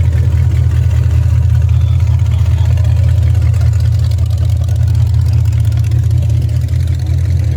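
A car engine idling steadily and loudly, a low, even running sound.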